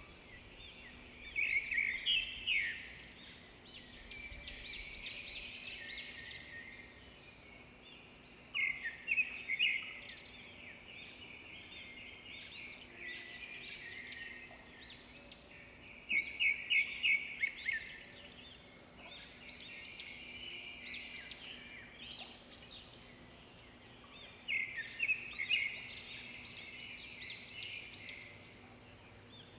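Birds singing outdoors: one bird gives a loud, rapid chattering phrase about every seven or eight seconds, with softer chirps from other birds in between.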